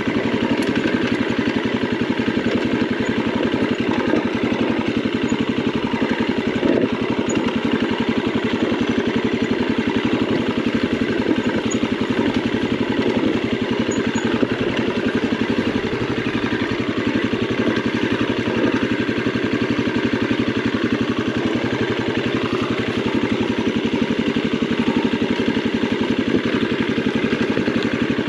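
Husqvarna 701's single-cylinder engine running at steady low revs as the motorcycle is ridden on a dirt trail.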